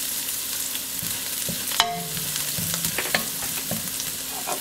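Minced shallots and garlic sizzling in hot oil in a nonstick wok, stirred with a wooden spatula. The spatula gives scattered light knocks against the pan, the sharpest just under two seconds in.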